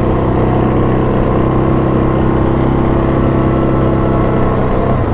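Yamaha Grizzly 700 ATV's single-cylinder engine running at a steady speed under way, its note dropping near the end as the throttle eases off.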